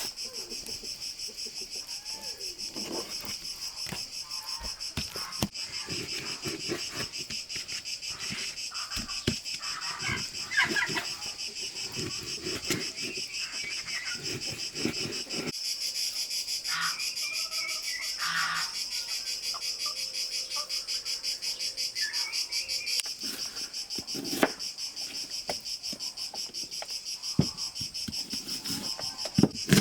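Insects chirring steadily in a fast, even pulse, likely crickets, with scattered knocks and clicks throughout, a few louder ones.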